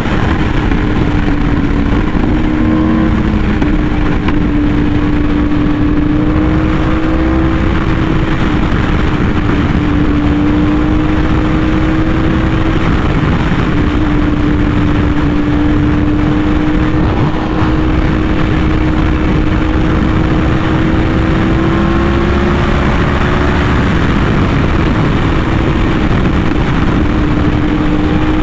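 Yamaha R1M's crossplane inline-four through an SC Project exhaust, cruising at fairly steady revs; the engine note rises and falls only gently.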